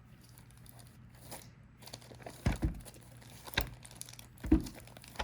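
Plastic wrapping crinkling and tearing as a card box is opened, with several sharp knocks of the box being handled, the loudest a little past halfway.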